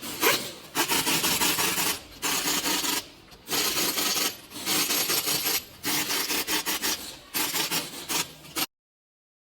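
Repeated rough rubbing strokes, each about half a second to a second long with short pauses between them, that cut off abruptly near the end.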